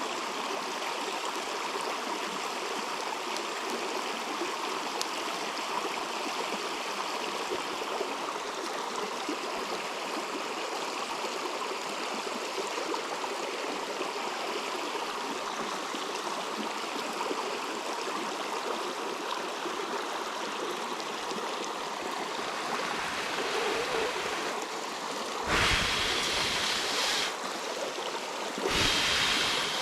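Steady rush of a river flowing. Near the end come two louder, deeper rushing stretches of a second or two each.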